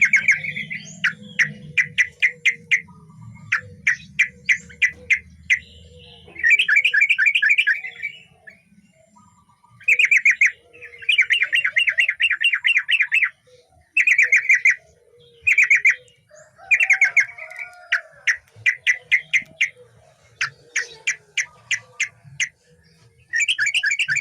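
Male yellow-vented bulbul singing in quick bubbling phrases, each a rapid run of short high notes, separated by brief pauses.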